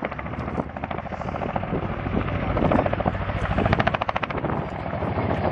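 Boeing Chinook twin-rotor helicopter approaching, its rotor blades giving a rapid, steady beat that grows louder.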